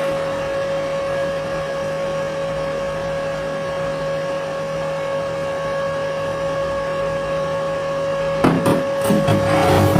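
Small electric motor running steadily with an even whine, with a few short knocks near the end.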